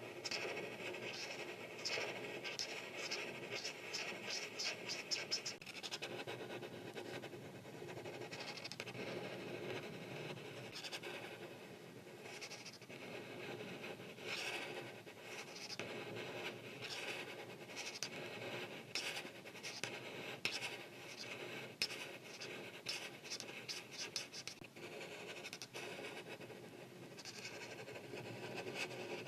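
Art marker tip scratching across paper in repeated short coloring strokes, with a quick run of back-and-forth strokes a few seconds in.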